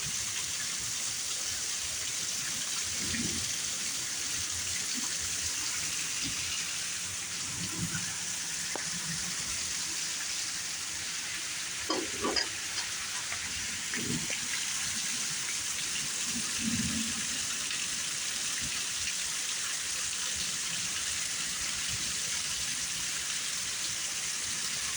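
Heavy thunderstorm rain falling steadily as a dense, even hiss. A few brief faint low sounds come through it, and there is a short double knock about twelve seconds in.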